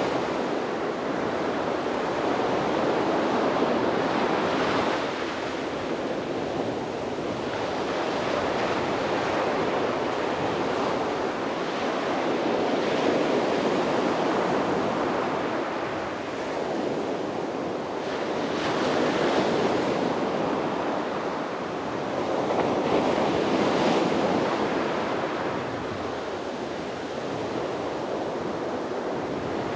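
Sea waves breaking and washing up a beach in continuous surf, swelling and easing every few seconds.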